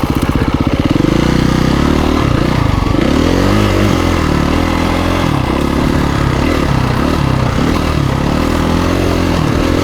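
KTM 350 EXC-F's single-cylinder four-stroke engine running, chugging slowly for the first second. Its pitch then rises and falls repeatedly as the throttle is opened and closed.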